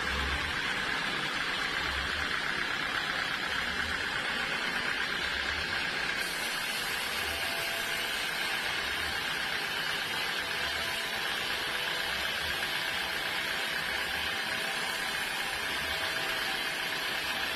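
Sawmill machinery running steadily, with a constant high whine and a low thump that recurs about every one to two seconds.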